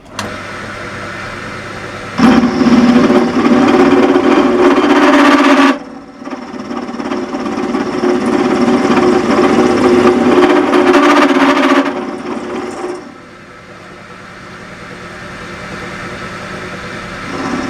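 Drill press running as a makeshift mill, its cutter milling a keyway into a silver steel shaft. The cutting is loud in two stretches, from about two to six seconds in and from six to twelve seconds in, over the steady motor hum, which carries on alone near the end.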